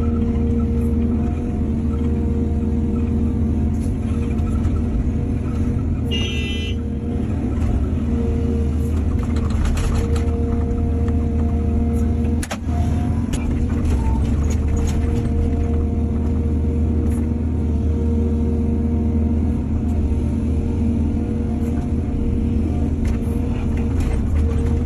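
Excavator's diesel engine running steadily, with scattered knocks from the digging and loading and a brief high-pitched squeal about six seconds in.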